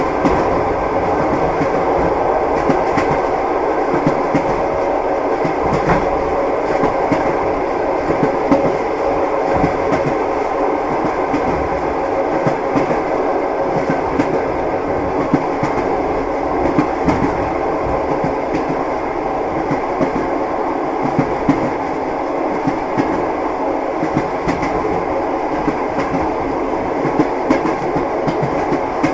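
Moving passenger train heard from inside the carriage: the steady rumble of the running coach, with many light clicks of the wheels over the rails and a faint steady hum.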